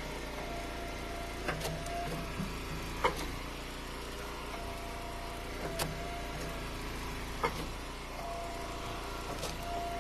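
Eastonmade hydraulic wood splitter's engine running steadily, with a whine that rises in three stretches of a second or two as the ram pushes through ash rounds. Several sharp knocks and cracks of wood splitting and pieces dropping are heard.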